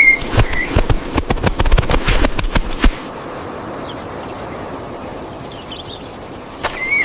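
Rapid crackling and clicking for about three seconds, easing into a steady hiss, with the crackling starting again near the end and a short high chirp at the start and at the end.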